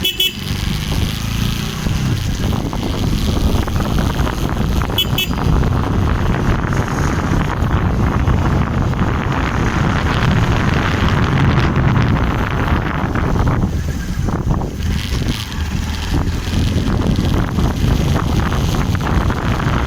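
Bajaj Pulsar NS200's single-cylinder engine running under way, with wind rushing over the microphone. The engine eases off briefly about fourteen seconds in, then picks up again.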